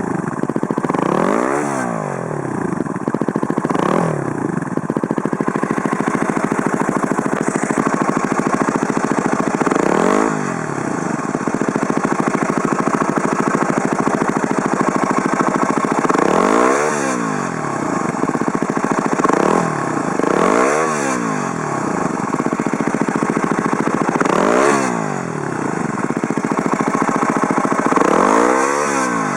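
Yamaha WR250R's 250 cc single-cylinder four-stroke engine fitted with an FMF Q4 slip-on muffler, idling and given repeated quick throttle blips. Each blip sweeps the pitch up and straight back down to idle, about eight times.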